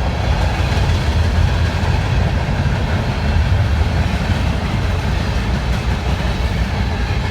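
Freight train cars rolling past, a steady heavy rumble with wheel and rail noise.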